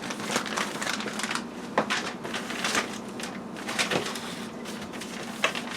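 Plastic vacuum-sealer bag roll being handled and cut with scissors: a crackly rustle of plastic with scattered sharp snips and clicks at irregular intervals.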